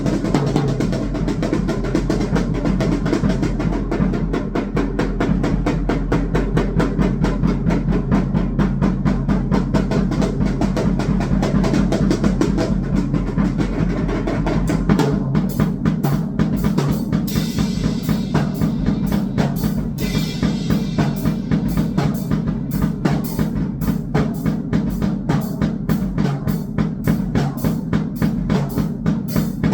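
Electronic noise music built on fast, dense drumming, with hits packed closely together. About halfway through, a low steady hum underneath drops out and the hits turn sharper and brighter.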